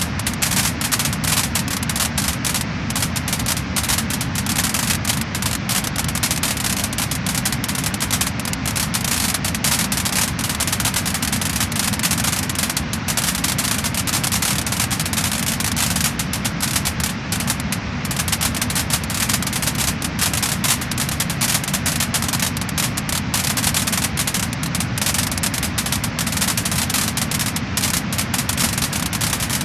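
Wood fire in a fireplace, crackling and popping continuously with many small, quick pops over a steady hiss.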